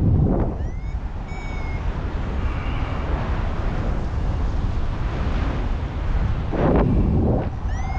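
Strong wind buffeting the microphone during a paraglider flight, a steady rush with louder gusts at the start and again about three-quarters of the way in. A few short high tones that rise in pitch and then hold sound briefly over it, about a second in and again at the end.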